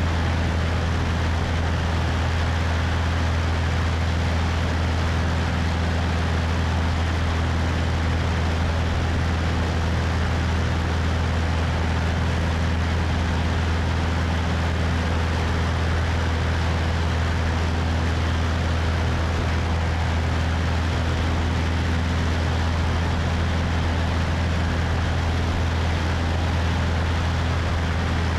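Cessna 172's engine and propeller droning steadily in flight, with a deep constant hum and wind rushing past the wing-mounted microphone.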